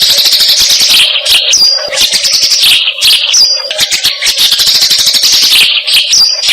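Recorded bird calls: a fast, dense rasping chatter with a few short whistled notes, played as masteran training song for magpie robins.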